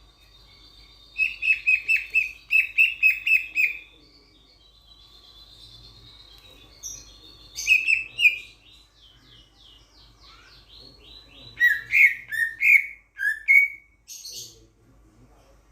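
Raja perling, a Sulawesi starling, calling loudly: a quick run of about ten sharp notes, then scattered calls and whistles later on.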